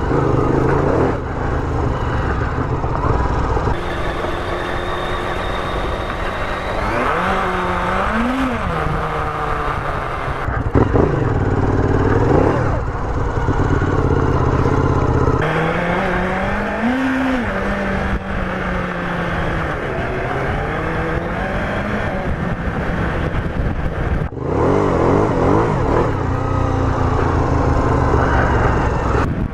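Motorcycle engine running and revving on a rough track, its pitch climbing and dropping again and again as the throttle opens and closes, with several abrupt jumps in the sound between short clips.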